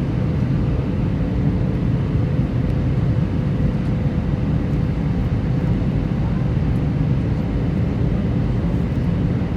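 Steady low rumble of an Airbus A319's jet engines in flight, with faint steady tones over a constant deep roar and no change in level.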